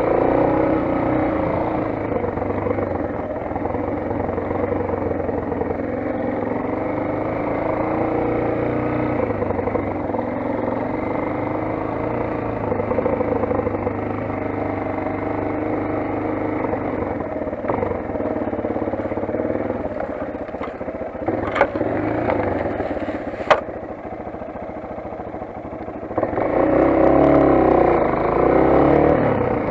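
Motoland XR 250 enduro motorcycle's single-cylinder four-stroke engine running steadily under way, with two sharp clicks a little past the middle. The engine eases off briefly, then revs up louder near the end.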